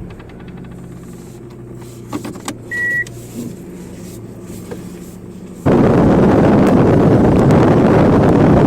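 A car's low engine and road hum from inside the cabin, with a few soft clicks and one short high beep about three seconds in. About five and a half seconds in, a loud steady rushing like wind on the microphone comes in suddenly and covers everything.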